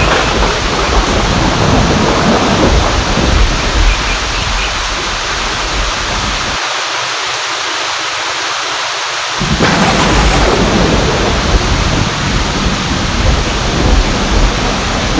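Steady heavy rain with rolling thunder rumbling underneath. The deep rumble drops away for about three seconds midway, then thunder comes back with a sharper, louder clap.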